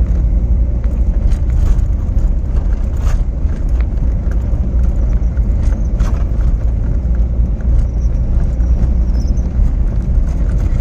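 Car driving along a winter road: a steady low rumble from the tyres and running gear, with scattered short clicks and rattles.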